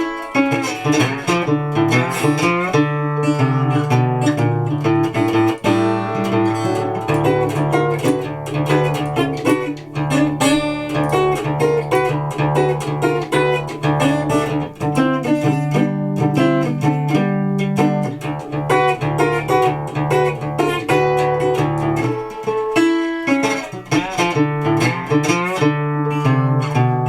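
Recording King Swamp Dog parlor resonator guitar played solo: a run of picked notes over a steady droning low bass note, which drops out briefly a few seconds before the end.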